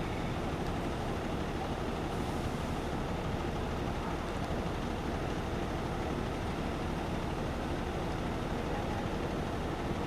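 Steady low rumble of a fire truck's engine idling, even and unbroken throughout.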